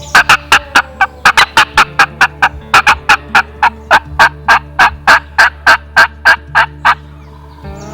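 Wild turkey calling: a long, even series of sharp, loud notes, about three to four a second, that stops about a second before the end.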